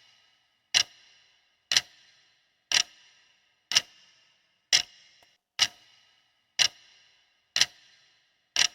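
Clock-tick sound effect of a quiz countdown timer: sharp ticks about once a second, nine in all, each with a brief ringing tail, marking the answer time running.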